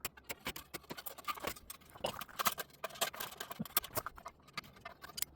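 Irregular light clicks, taps and scrapes of metal pieces being handled and crimped together by hand, a few sharp ticks every second.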